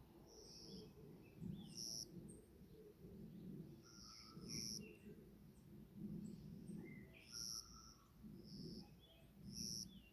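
Wild birds calling in a forest: a short, high call repeats every second or two, with a few lower sliding whistles in between, all faint over a low, uneven background rumble.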